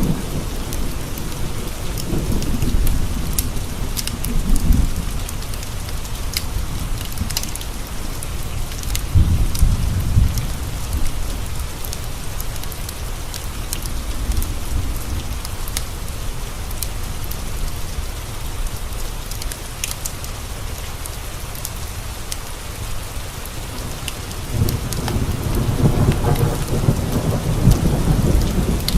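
Steady rain with rolling thunder: rumbles in the first few seconds, again about ten seconds in, and a longer one building near the end. Scattered sharp crackles sound over the rain.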